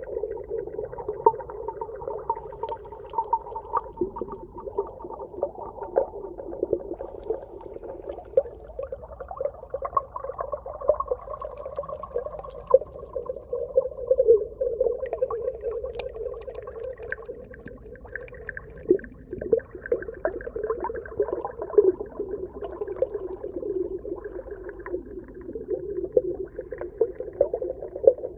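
Underwater soundscape: wavering low moaning tones that shift slowly in pitch, over a constant crackle of small clicks.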